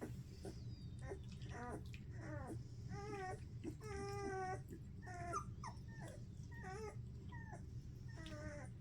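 Young collie puppies whimpering and squealing in a string of short, wavering cries, over a steady low hum.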